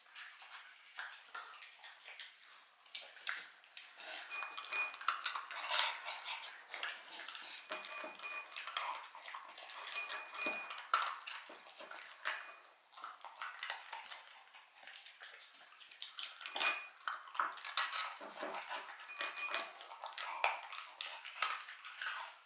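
Shiba Inu eating dog treats: a dense run of irregular clicks and knocks with short metallic-sounding clinks.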